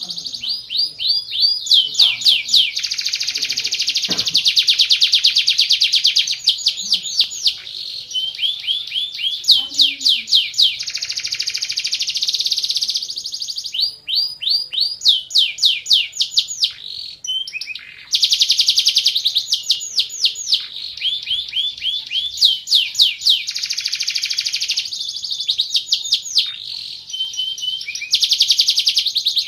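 Domestic canary singing a long, continuous song of high, fast trills and rolls of rapidly repeated notes, with a couple of short breaks midway.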